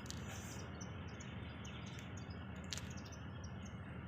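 Rows of short, high-pitched chirps repeating at a steady pace over a constant background hiss, with a couple of brief sharp clicks.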